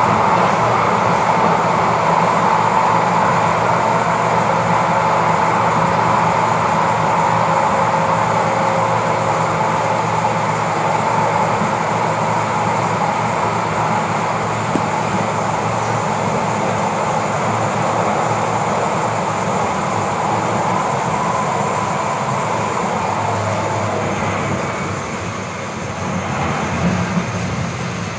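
Interior running noise of a Siemens-Duewag U2 light rail car underway: the rumble of wheels on rails with a steady whine on top. The noise dips briefly near the end.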